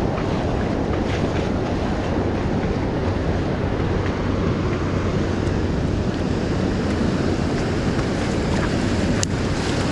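Ocean surf washing on the beach, a steady rumbling wash with wind buffeting the microphone, and a single short click near the end.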